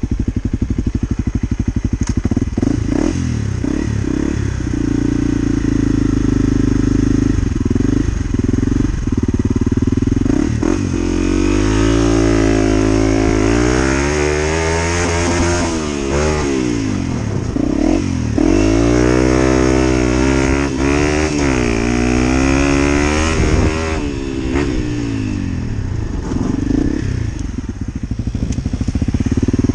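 Honda CRF250L single-cylinder four-stroke trail-bike engine on a dirt track. It runs steadily at first with a few knocks. From about ten seconds in, the revs climb and drop again several times as the bike accelerates and brakes through a start-stop timed test, then settle back to a steady beat near the end.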